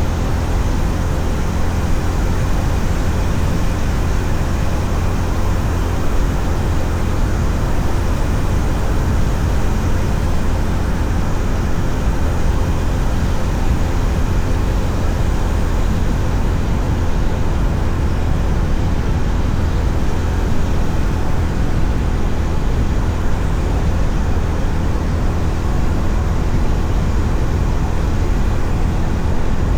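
Steady wind rush and road noise while riding a Honda CB350RS at cruising speed, with the bike's single-cylinder engine running beneath it. The rush is heaviest in the low range and holds even for the whole stretch, with no gear changes or revving.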